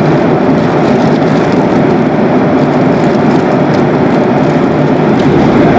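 Steady, loud engine and airflow noise heard from inside the cabin of a Boeing 737-800 with CFM56-7B24 turbofan engines, an even rush without distinct tones or knocks.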